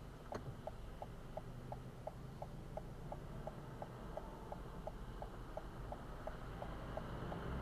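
Car turn-signal indicator ticking steadily, about three ticks a second, over the low rumble of the car driving.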